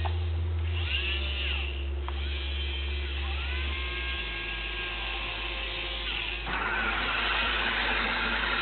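Small electric gear motors of a Roomba-based robot and its OWI-535 arm whirring in short runs, each whine gliding up in pitch as a motor starts. From about six and a half seconds in, a rougher, louder whir keeps going.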